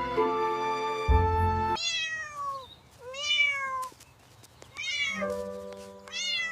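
A cat meowing four times, each meow rising then falling in pitch. Background music plays at first, stops when the meows begin, and comes back in under the last two.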